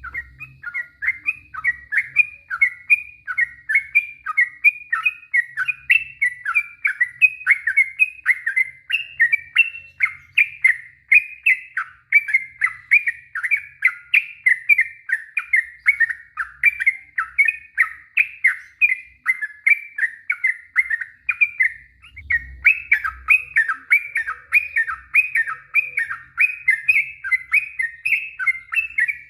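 Yellow-vented bulbul (trucuk) singing a long unbroken run of quick, bubbly warbled notes, about four a second.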